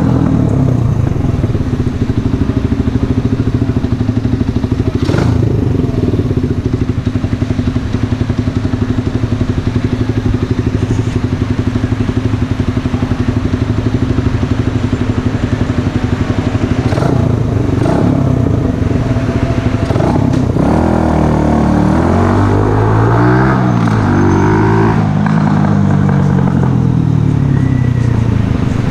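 Mash Café Racer 125cc motorcycle's single-cylinder engine idling steadily through a Megaton aftermarket exhaust, then revved up and down several times about two-thirds of the way in before settling back to idle. A few sharp clicks sound over the idle.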